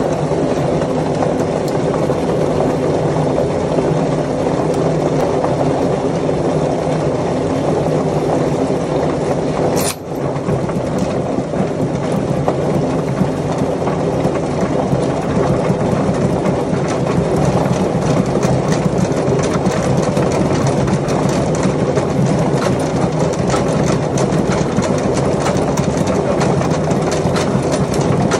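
Golf ball washing machine running: a steady mechanical drone with a constant fast rattle of small clicks on top, broken briefly by a sharp click and dip about ten seconds in.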